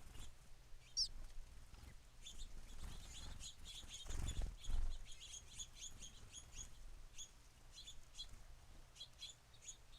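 Small songbirds chirping: many short, high chips, some in quick runs, with a brief low rustle about four seconds in.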